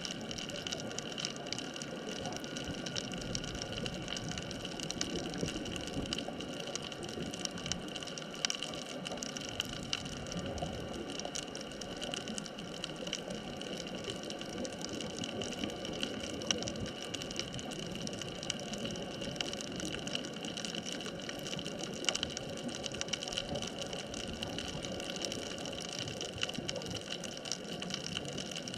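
Underwater ambience on a sunken bridge-span reef: a steady hiss with many scattered faint crackles and a few faint steady tones, with no breaks.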